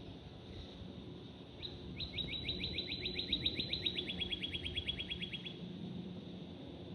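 A songbird singing one rapid trill of about thirty short, identical notes, about eight a second, lasting about four seconds; the notes drop slightly in pitch partway through. A steady low rumble runs underneath.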